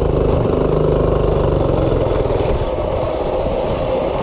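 Small minibike engine running under way, its pitch wavering slightly.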